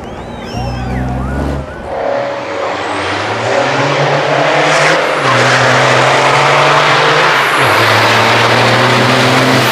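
Race truck engine of about 1500 hp pulling hard under full load, getting louder, its pitch shifting in steps at gear changes about two, five and seven and a half seconds in.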